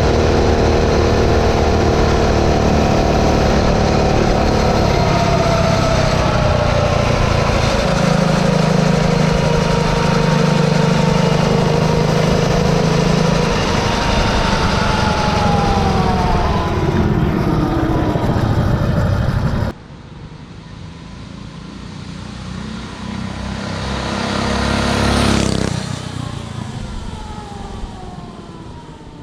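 Mini bike's Predator 212cc single-cylinder four-stroke engine, fitted with a Stage 2 kit, running under load while riding, its revs rising and falling. About twenty seconds in the sound drops suddenly. It then swells as a mini bike comes close and fades away with falling pitch as it passes.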